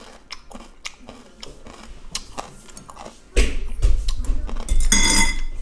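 Close-mic eating sounds of a wonton being taken from chopsticks and chewed: quick soft smacks and clicks. About three and a half seconds in, a louder, muffled noisy stretch follows.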